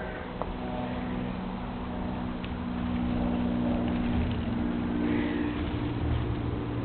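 Steady engine hum from a motor, getting somewhat louder partway through, with a few faint high chirps over it.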